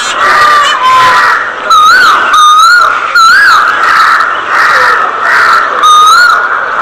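A flock of budgerigars chattering, with short wavy whistled chirps repeating over a dense background of many birds calling at once.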